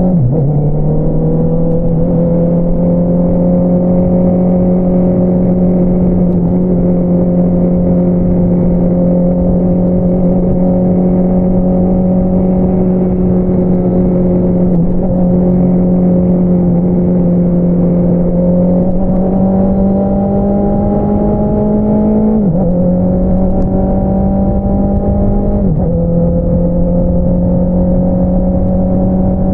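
2022 Honda CBR650R's inline-four engine through an Akrapovič single-outlet exhaust, pulling at steady, slowly climbing revs while riding. The revs drop sharply just as it begins and twice more near the end, as on upshifts, then climb again.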